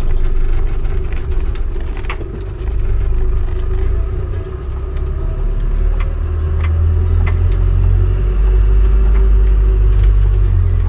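Steady low engine rumble with a constant hum, growing louder in the second half, with a few faint clicks.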